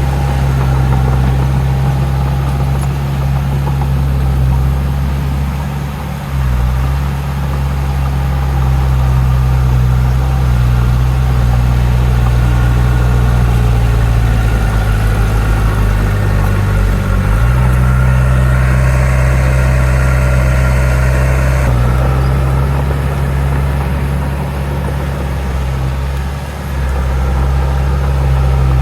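Heavy diesel engine of earthmoving machinery running steadily, its pitch shifting a few times as the load changes. A steady hiss comes in for about three seconds past the middle.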